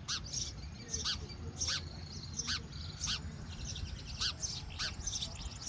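Baby birds chirping: short, sharp chirps repeated at uneven intervals, about ten of them.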